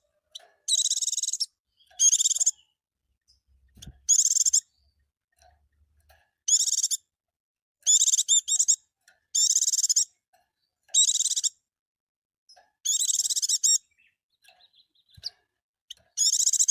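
Pleci (white-eye) singing nine short, bright, high-pitched warbling phrases, each under a second long, with pauses of one to two seconds between them.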